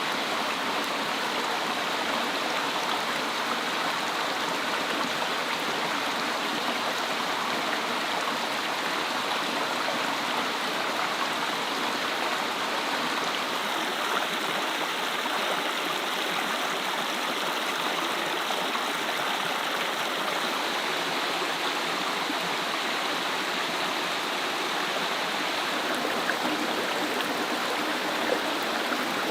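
Steady rushing of flowing water, like a stream, unbroken throughout, with a couple of faint ticks near the end.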